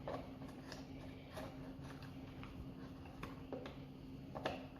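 Faint, scattered clicks and light taps of small parts being handled while an old Sony radio is unscrewed and taken apart, over a faint steady low hum.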